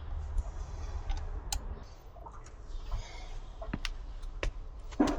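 Scattered light clicks and taps of hand tools and small metal parts being handled, irregular and a second or so apart, over a low steady hum.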